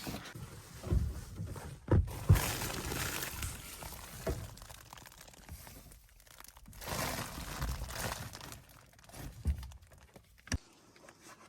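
Handling noises: crinkly rustling in two stretches, with a few sharp knocks about two seconds in and one near the end.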